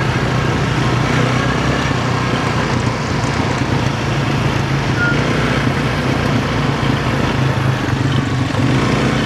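A motor vehicle's engine running steadily, with a constant low hum.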